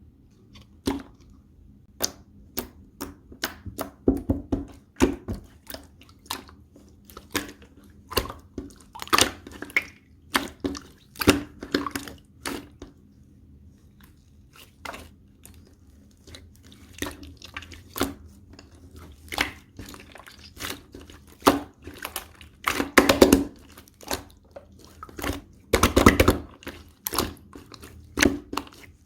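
Slime being squeezed, stretched and poked by hand, giving irregular sticky clicks and small air-bubble pops, with denser runs of crackling about two-thirds of the way through and near the end.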